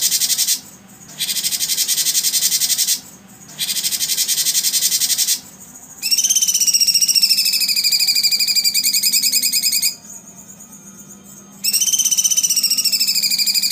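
High, rapidly pulsed buzzing trills in repeated bursts. Three short bursts of about two seconds come first, then two longer trills of about four seconds whose pitch slides slowly down, with short gaps between.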